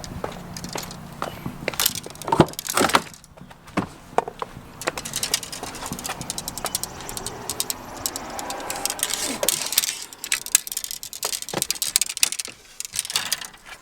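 Irregular clicks, knocks and rattling of objects being handled, with no steady source underneath.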